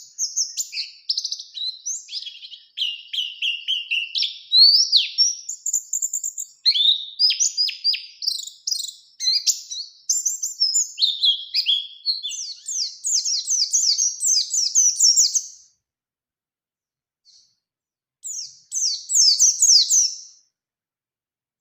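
White-eye (pleci) singing a fast, continuous twittering song of rapid high chirps and trills, breaking off about three-quarters of the way through, then one more short burst of song near the end.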